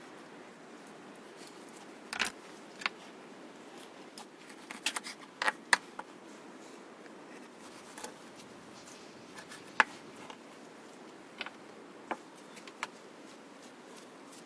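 Scattered light clicks and knocks of things being handled while cooking, about a dozen, irregularly spaced over a steady low background hiss. The loudest is a single sharp click a little before the ten-second mark.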